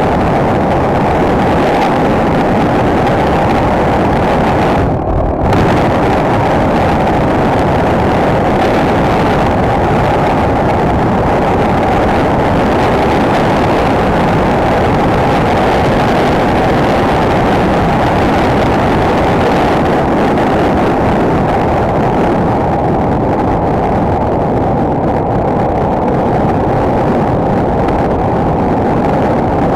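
Enduro motorcycle's single-cylinder four-stroke engine running steadily under way, mixed with wind rushing over the microphone; the sound dips briefly about five seconds in.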